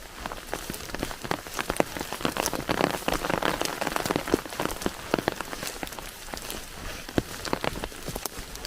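Rain falling, with many irregular sharp drop ticks on a surface over a steady hiss, heavier for a couple of seconds in the middle.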